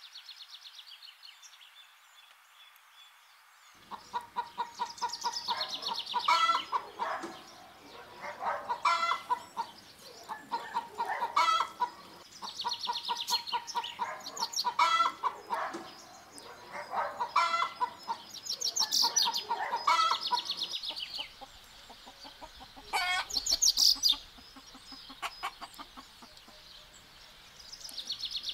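A flock of hens clucking and squawking in repeated bouts, one every two or three seconds, starting about four seconds in after a faint hiss.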